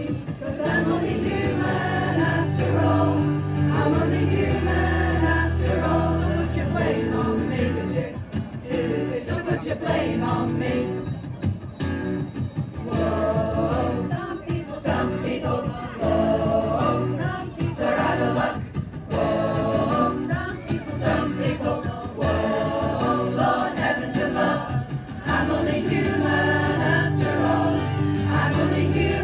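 A choir singing over musical accompaniment with held bass notes, in a gospel-like style.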